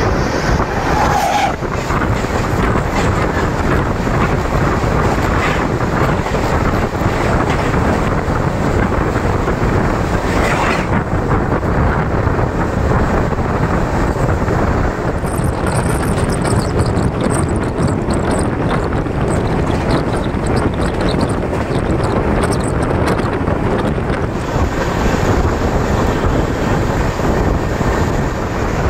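Express passenger train running at speed, heard from inside the coach: a steady loud rumble and rush of wheels on the track, with wind buffeting the microphone.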